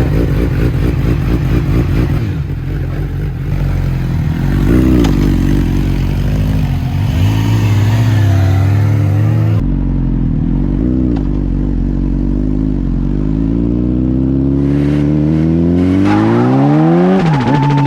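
Yamaha R6 sport bike's inline-four engine running, then revving up in one long climb in pitch over about four seconds as it accelerates, with a sharp drop in pitch near the end.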